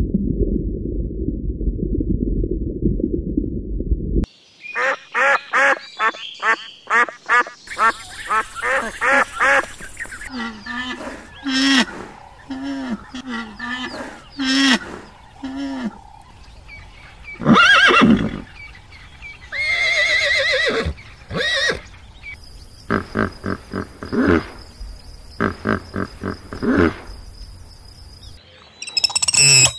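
Low rumbling noise for about four seconds, then a long run of short, repeated animal calls in several different voices, loudest in a few calls near the middle.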